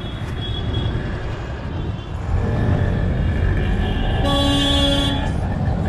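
Motorcycle riding in city traffic: steady engine and road rumble, with a horn blaring for about a second near the end and a fainter honk about halfway through.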